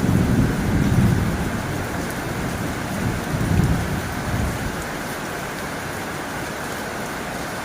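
Heavy rain falling steadily on a tin roof, with low rumbles of thunder at the start and again about three seconds in.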